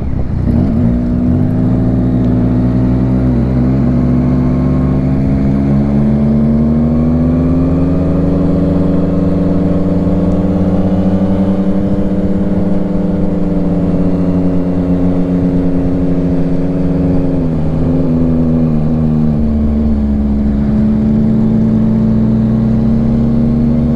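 Motorcycle engine running while riding, a steady note that climbs slowly about a third of the way in, then dips briefly and drops to a lower pitch about three-quarters through.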